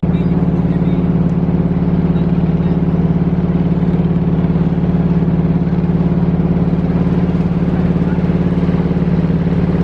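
Klotok boat engine running at a steady speed, with a fast, even pulse.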